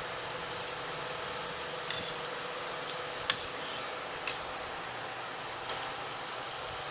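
A steady background hiss and hum with three short, sharp clicks over about two and a half seconds, beginning near the middle.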